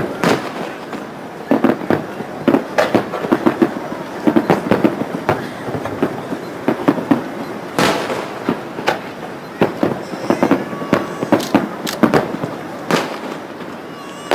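Fireworks display: a dense, continuous run of bangs and crackles from shells bursting overhead, with a few louder reports standing out, one near the middle and one near the end.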